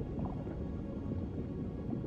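Soft ambient music over a steady, low underwater ambience with faint gurgling.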